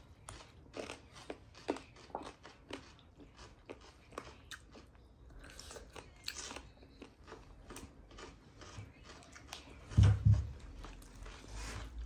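Close-up chewing and biting of chicken, with many small wet mouth clicks and crunches. Two heavy low thumps about ten seconds in are the loudest sounds.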